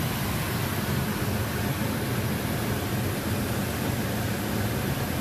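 Outdoor air-conditioner compressor running with a steady low hum while the condenser fan sits still, a sign of the failed dual run capacitor (30+5) that leaves the fan dead and the system not cooling.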